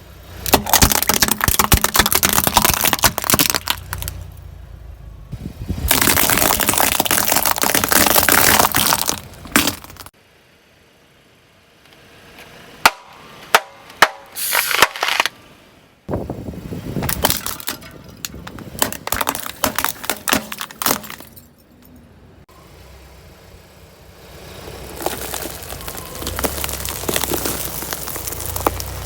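Objects being crushed under a car's tyres: several spells of dense cracking and crunching a few seconds long, with pauses between them, and three sharp pops in the middle. A low rumble from the car runs under the crushing near the end.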